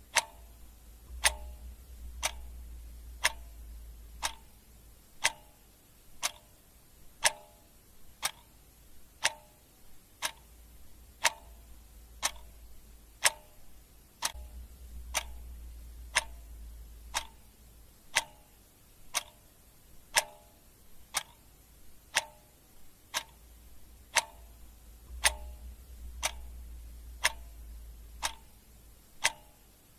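Clock ticking steadily at about one tick a second. Each tick is a sharp click with a short, slightly ringing tail.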